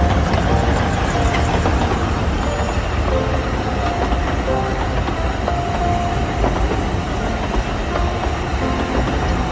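Alishan Forest Railway train running: a steady low rumble and rattle of the carriage on the rails, with a few short tones over it.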